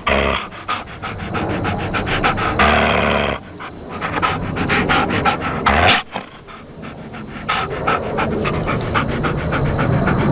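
Rapid, rhythmic panting, about five breaths a second, briefly easing twice.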